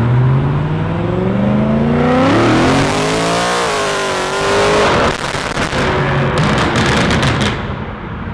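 BMW E92 M3's 4.0-litre V8 through straight test pipes and an aftermarket exhaust, accelerating hard with the pitch climbing for a couple of seconds, then dropping off. Near the end the exhaust pops and crackles on the overrun.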